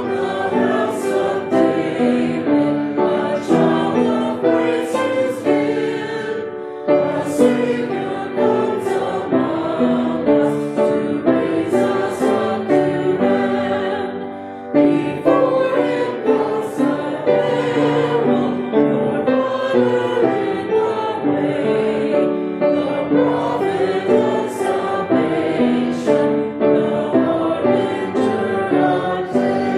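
Church congregation singing a hymn with accompaniment, breaking briefly between lines about 7 and 15 seconds in.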